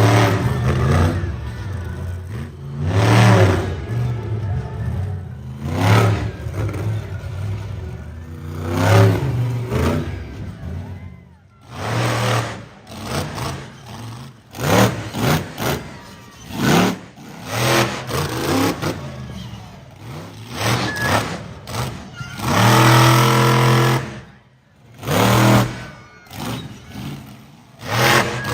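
Monster truck engine revving hard in repeated bursts, rising and falling every second or two, with one longer, loudest run near the end.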